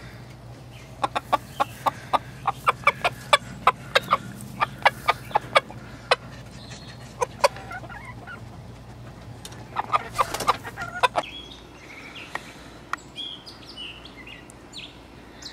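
Chickens clucking: a run of short, sharp clucks at a few per second, another burst about ten seconds in, then fainter high chirps near the end.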